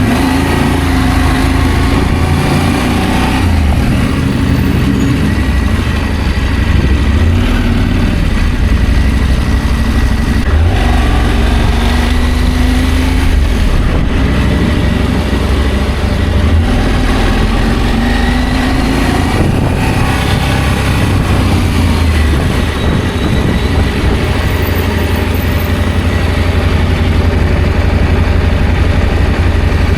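Adventure motorcycle being ridden, its engine running steadily loud with the pitch rising and falling with the throttle, dipping briefly a few times, over a heavy low rumble.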